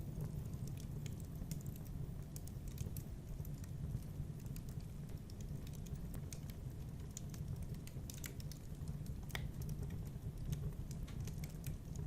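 Wood fire crackling in a fireplace: a steady low rumble of burning with sparse, sharp pops and crackles scattered throughout. One pop stands out about nine seconds in.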